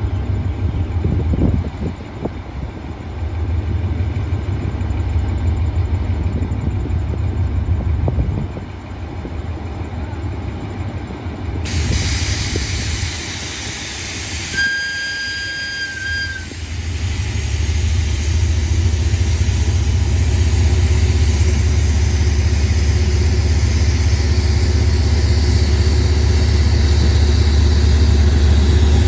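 Diesel train engine rumbling at a station platform, with a hiss that sets in about halfway through. A single whistle blast of about two seconds follows, and the engine's rumble then grows steadily louder.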